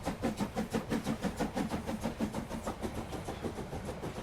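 Steam locomotive chuffing as it sets off, an even beat of puffs that quickens as it gathers speed.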